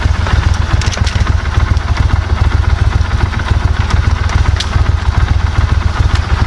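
Duck boat's motor running steadily at low speed, a loud, even, fast-pulsing low rumble with a few light clicks over it.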